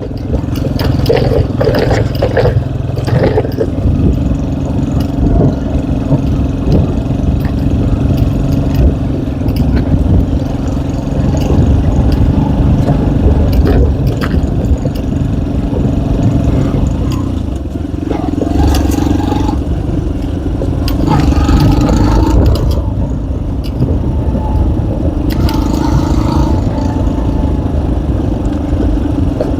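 Tomos ATX enduro motorcycle engine running steadily under load on a hill climb. Its pitch rises briefly twice, about two-thirds of the way through, over a heavy low rumble.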